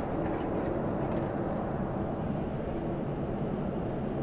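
Steady jet airliner cabin noise in flight: an even low rumble of engines and rushing air, with a few faint light clicks in the first second or so.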